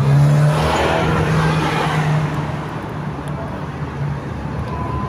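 A car passing close by on the street: a low engine hum with a swell of tyre and road noise in the first couple of seconds, then fading into steady traffic noise.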